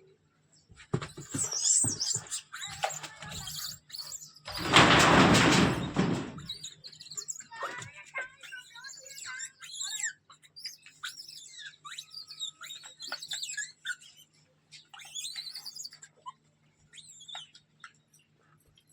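Short high animal chirps and squeaks scattered throughout. A loud rushing noise lasts about two seconds, starting roughly four and a half seconds in.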